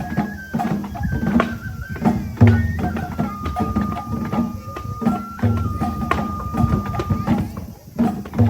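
Japanese festival folk music: a bamboo flute playing long held notes over a steady beat of taiko drums.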